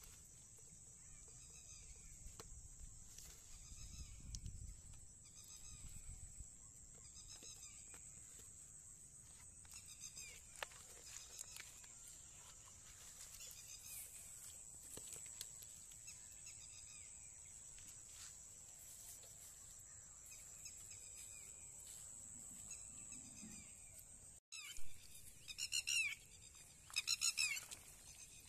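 Outdoor rural ambience: a bird calling over and over, about once a second, over a steady high-pitched whine. The calls are louder near the end, after a brief dropout.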